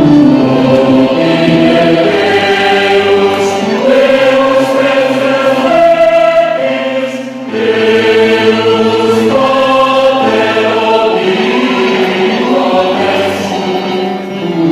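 Church youth choir singing a worship song in parts, held chords with a short break about seven seconds in.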